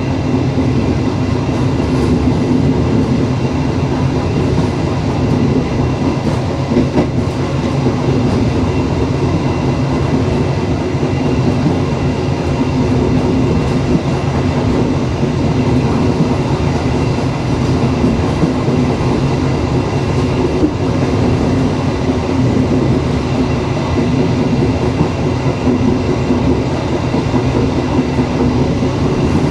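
Dharmawangsa passenger train running steadily, its wheels rumbling on the rails, with a few faint clicks along the way.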